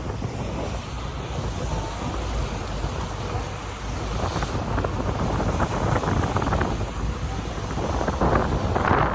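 On a river ferry under way, a steady low rumble with water rushing and wind buffeting the microphone.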